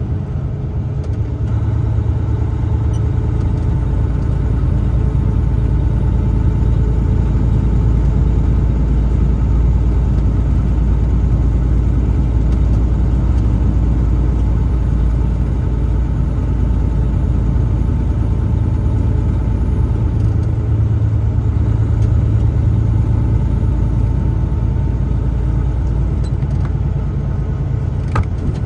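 A truck driving along the road: a steady low rumble of engine and tyres, swelling slightly twice.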